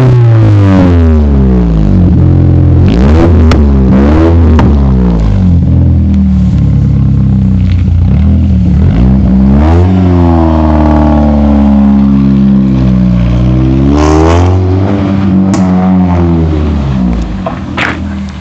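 Opel Calibra's engine and exhaust being revved: the pitch falls back from a high rev at the start, a few quick blips come a few seconds in, then two longer revs about ten and fourteen seconds in, each dropping back to a steady idle.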